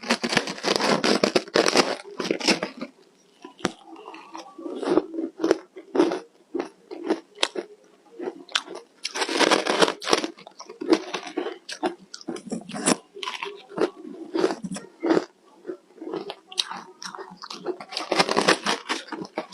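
Ice being bitten and chewed close to the microphone. Three spells of heavy crunching, at the start, about halfway and near the end, with lighter crackling chews in between.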